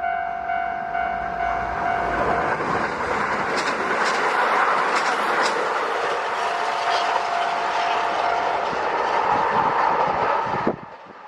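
A Japanese level-crossing warning bell rings, pulsing just under twice a second. Then a Kintetsu electric train passes close by, its wheels clattering over the rail joints, until the sound cuts off suddenly near the end.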